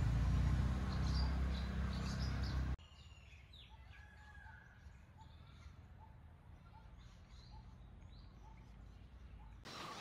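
A loud low rumble for the first few seconds that cuts off suddenly. After it, quiet forest ambience with birds calling: a short note repeated about every two-thirds of a second, and scattered higher chirps.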